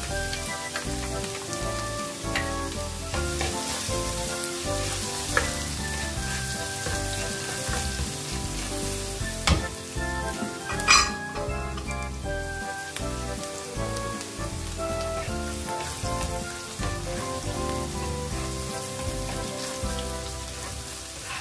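Minced garlic and ginger sizzling steadily in hot cooking oil in a nonstick wok as they are sautéed, with a few sharp clicks around the middle.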